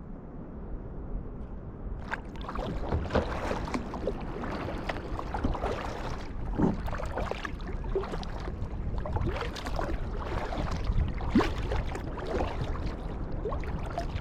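Low wind rumble on the microphone. About two seconds in it gives way to water splashing and gurgling, with repeated splashes from kayak paddle strokes and water lapping the hull.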